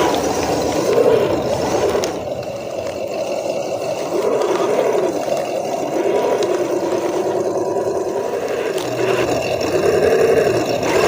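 Small RC crawler's electric motor and gearbox whining, the pitch rising and falling again and again as the throttle is worked.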